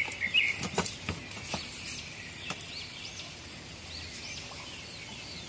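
Birds chirping in short repeated calls, busiest at first and fainter later, over a quiet outdoor background with scattered light clicks.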